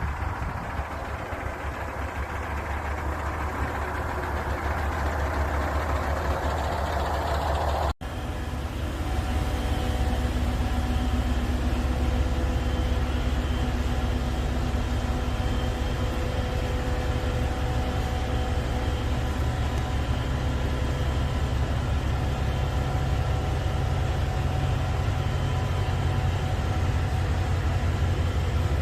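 Train running with a steady low hum and a few steady tones. It breaks off for an instant about eight seconds in, then carries on.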